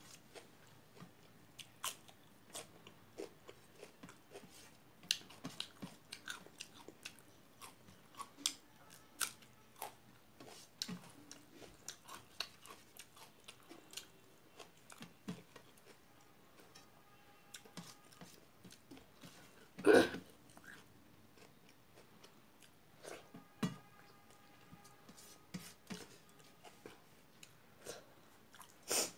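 Close-up eating sounds: a woman chewing mouthfuls of rice eaten by hand, with many small mouth clicks and smacks, and fingers working the rice on a steel plate. One much louder sudden sound about two-thirds of the way through.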